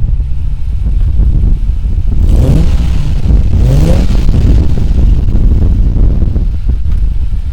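2006 Subaru Legacy exhaust, a steady low rumble at idle, revved up briefly twice about a second apart near the middle, then settling back to idle.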